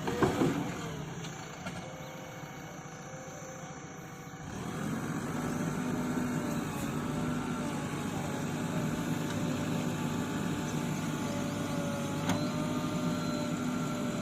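A motor running steadily with a slightly wavering hum, growing louder about four and a half seconds in; a brief clatter right at the start.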